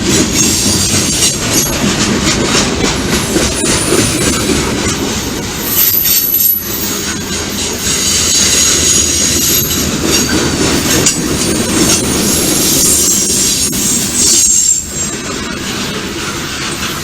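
Freight train cars rolling past, a steady rumble with wheel clatter and high-pitched wheel squeal at times.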